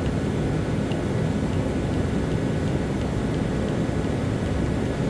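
Steady low droning hum of running machinery, even throughout with no distinct knocks or changes.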